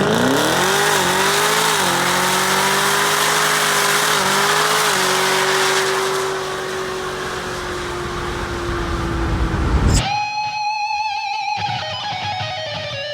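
Electric guitar music: one note slides up and is held for several seconds with a slow sag in pitch. About ten seconds in it switches suddenly to clearer held guitar notes with vibrato.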